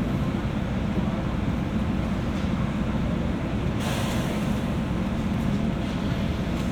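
Onboard running sound of a JR West 201 series electric train, in a motor car with thyristor chopper control: a steady low rumble of wheels and running gear. About four seconds in a brief burst of hiss rises over it for under a second.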